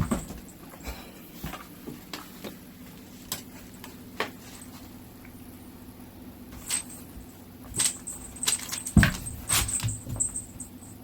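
A cat crunching dry kibble: irregular crisp crunches and clicks, with a lull of a couple of seconds near the middle and a quicker run of crunches in the second half.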